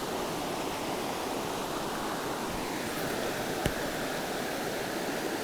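Shallow river water rushing steadily where it runs through a dump between two calm pools, with one short sharp click about two-thirds of the way through.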